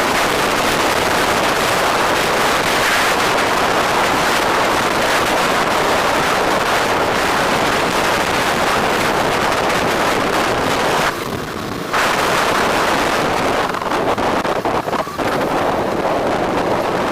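Loud, steady wind rush buffeting the microphone of a moving bike, with the road and traffic noise under it; the wind drops for about a second partway through.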